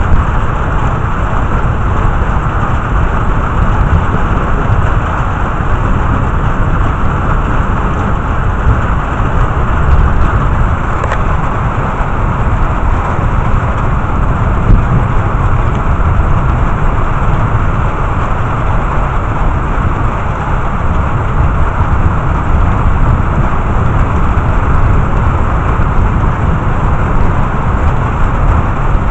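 Heavy thunderstorm rain falling in a steady, even rush, with a deep low rumble underneath.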